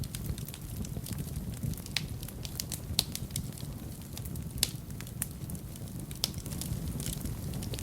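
Wood fire burning in a fireplace, crackling with irregular sharp pops over a low steady rumble of the flames; the loudest pops come about three seconds in and again a second and a half later.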